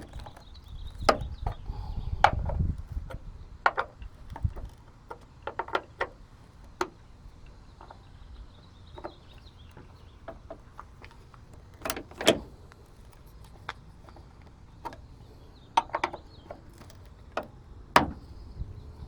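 Irregular metal clicks and clanks of a wrench working on the tailgate bolts of a Ford F-150 while they are loosened and removed, with a few louder knocks. There is some low rumbling handling noise in the first few seconds.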